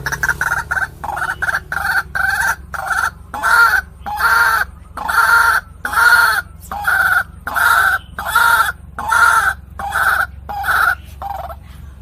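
White-breasted waterhen (ruak-ruak) calling: a long series of repeated notes, short and quick at first, then longer and louder at about one and a half a second, shortening again and stopping near the end.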